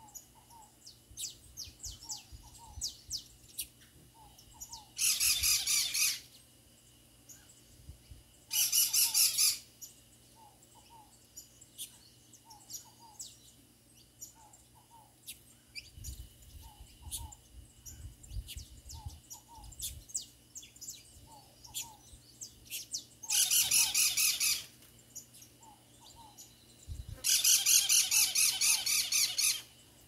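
Birds calling outdoors: four loud, harsh squawking calls, each a second or two long, break out over a steady background of quick high chirps and soft repeated double notes.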